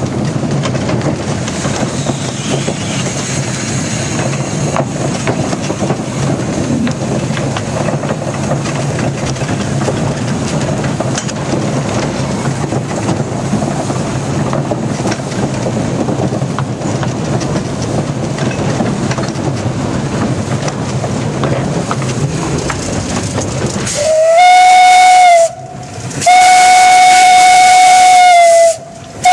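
1927 Vulcan steam locomotive running with a steady rumble and hiss. Near the end its steam whistle blows very loud and close: one short blast, then a longer one.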